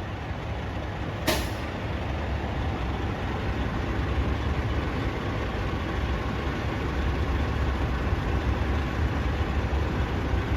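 Tractor-trailer's diesel engine running steadily during a backing manoeuvre, with one short, sharp hiss of the air brakes about a second in.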